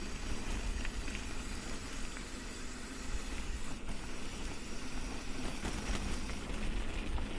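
Mountain bike rolling along a dirt track, with tyre noise, small rattling clicks, and a steady low rumble of wind on the microphone.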